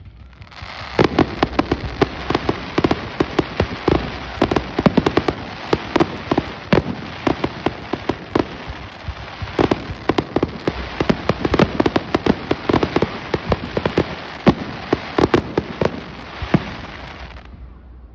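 Fireworks going off in a dense, continuous barrage of rapid crackling pops and louder bangs. It starts about half a second in and stops abruptly shortly before the end.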